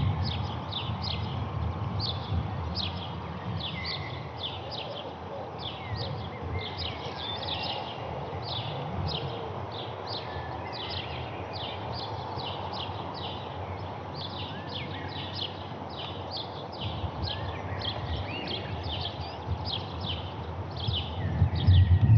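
A small bird chirping over and over, a few short high chirps a second, over a steady low rumble that grows louder near the end.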